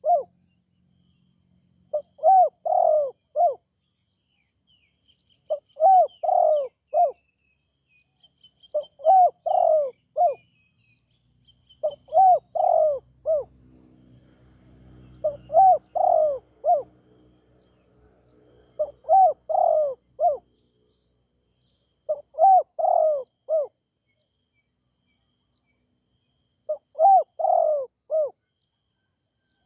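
Spotted dove cooing: a short phrase of several coo notes repeated about every three and a half seconds, eight times, with a longer pause near the end. Faint chirps of other small birds sound in the first half.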